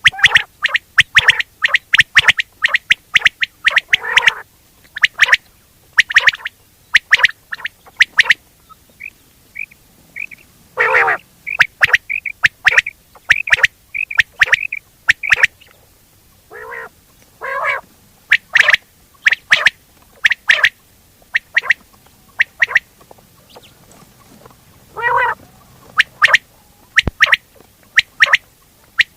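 Quail calling over and over in quick runs of short, sharp notes, with a run of softer, higher notes about ten seconds in. It is a quail-hunting call recording, of the kind played to lure quail.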